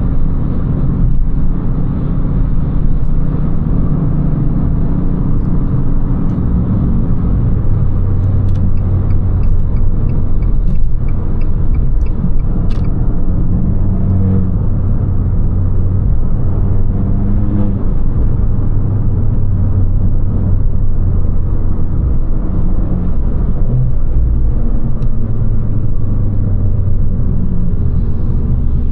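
Abarth 595 Competizione's turbocharged 1.4 T-Jet four-cylinder running through its Record Monza exhaust while driving at fairly steady, moderate revs, with road noise. A few seconds in, a run of regular light clicks, about three a second, lasts for roughly four seconds.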